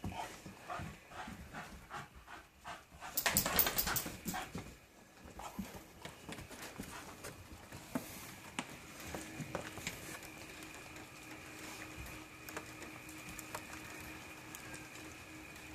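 A dog panting in an even rhythm, then a louder, rough burst of dog noise about three seconds in, followed by faint scattered clicks.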